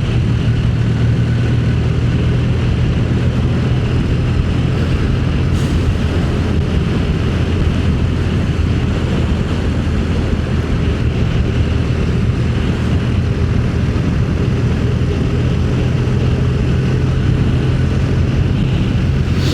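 Motorcycle engine running at a steady cruising speed, a constant low drone with rushing noise over it and no change in pace.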